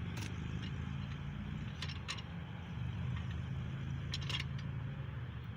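Light, scattered metal taps and clinks on a camshaft bearing removal tool in an engine block, about five in all, two pairs close together, over a steady low rumble in the background.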